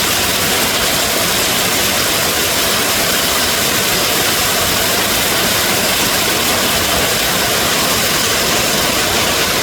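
Heavy monsoon rain falling steadily: a dense, even hiss.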